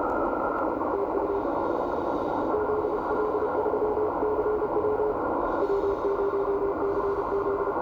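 Morse code (CW) signal on the 18 MHz amateur band heard through an Icom IC-7600 transceiver's receiver: a single keyed tone sending dots and dashes in runs with short pauses, over a steady hiss of band noise.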